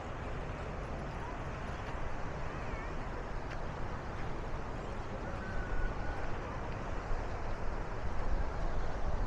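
Steady rushing of the Bow River at Bow Falls, with wind buffeting the microphone in low gusts that grow stronger near the end.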